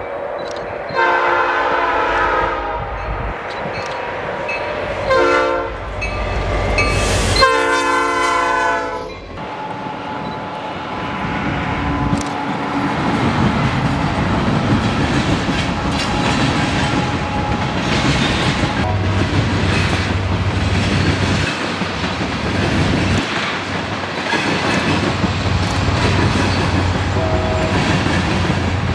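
Diesel freight locomotive's multi-chime air horn sounded three times: long, short, then long. The train then rolls past with wheels clicking over rail joints and a steady diesel engine drone.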